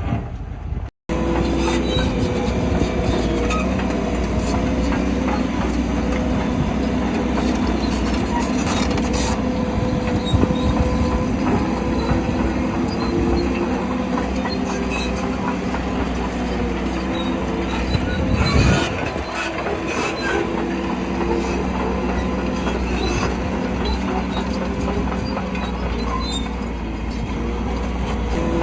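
Shantui crawler bulldozer at work: its diesel engine running steadily under load while its steel tracks clank and squeal.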